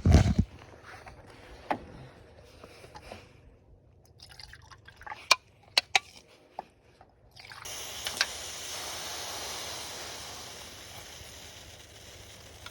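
Water being poured: a few sharp clicks and knocks of handling, then a steady pour that starts a little past halfway and keeps going.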